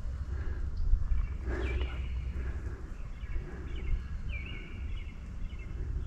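Small birds chirping: short, high, falling calls repeated several times, more often in the second half, over a steady low outdoor rumble.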